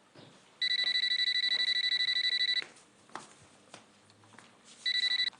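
Telephone ringing with a fast-trilling electronic ring: one ring of about two seconds, then the start of a second ring near the end.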